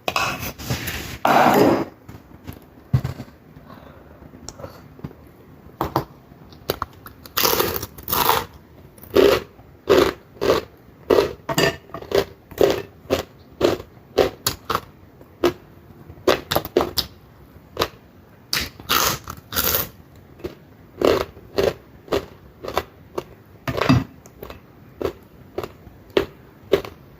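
Close-miked eating: chewing with short crisp crunches of fried dried fish and dried squid with rice, coming irregularly about once or twice a second.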